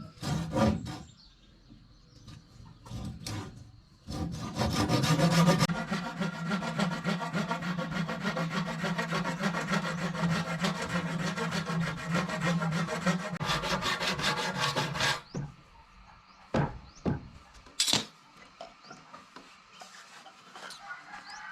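A tool working wood with a fast, even rasping for about eleven seconds, starting about four seconds in. A few sharp wooden knocks come before and after it.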